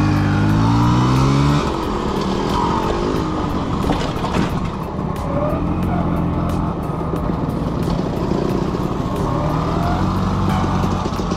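Two-stroke engine of a Vespa V50 scooter under way on the road. It climbs in pitch for the first second and a half, drops back, then runs at a fairly steady speed.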